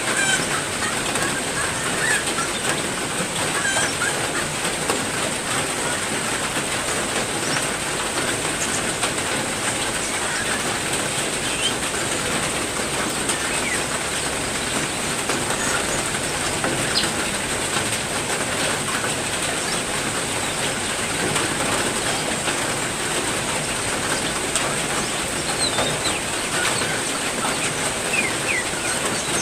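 Heavy rain falling steadily, with short bird chirps now and then over it and a steady high-pitched tone throughout.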